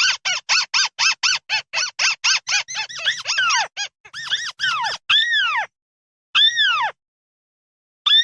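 Flock call of the mắt xéo bird: a fast run of short arched notes, about five a second, that slows into a few longer down-slurred notes, then a pause and one more note near the end.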